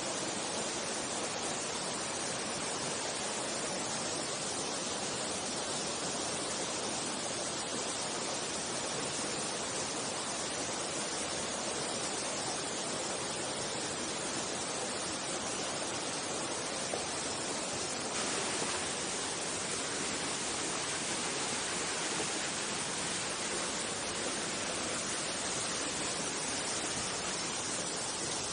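Mountain stream rushing over rocks: a steady, even water noise, with the hiss turning a little brighter about two-thirds of the way through.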